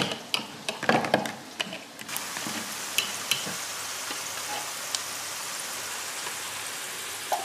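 Eggs being beaten hard in a glass bowl, with quick irregular clinks for about the first two seconds. Then sliced onions and halved frankfurters sizzle steadily in oil in a frying pan, with a few pops.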